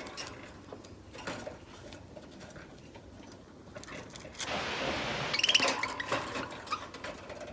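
Pet budgerigars chirping softly amid small clicks and rustles, louder from about four and a half seconds in.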